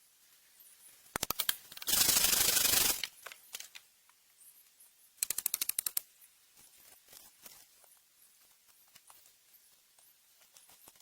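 Bursts of very rapid clicking: a quick run of clicks, then a dense loud rattle lasting about a second, and a second run of rapid clicks a few seconds later, with faint scattered ticks in between.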